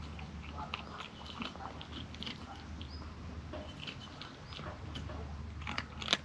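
A kitten eating: irregular small chewing and crunching clicks, with a couple of louder clicks near the end.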